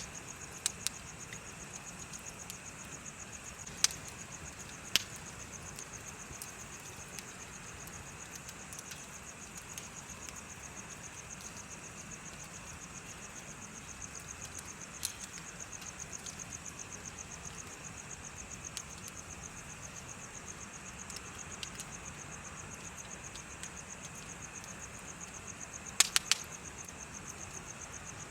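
Insects chirping in a steady, fast pulsing trill, with the occasional sharp pop of a wood bonfire crackling: a few single pops early on and a loud cluster of three pops near the end.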